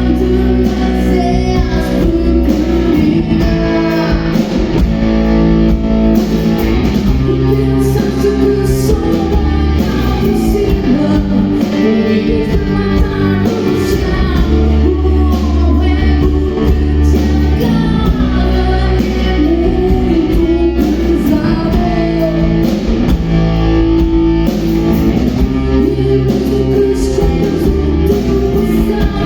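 Rock band playing live, with singing over guitars, bass and drums.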